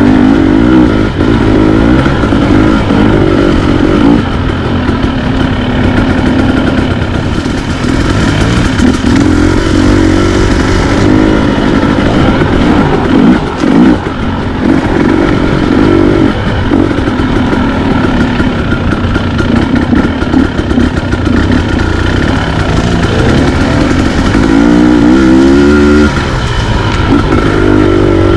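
Dirt bike engine running loud while being ridden, its revs rising and falling again and again as the throttle opens and closes, with a brief drop in revs about halfway through.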